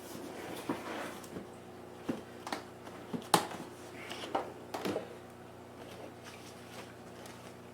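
Cardboard laptop box being handled: scattered light taps and rustles, the sharpest about three and a half seconds in.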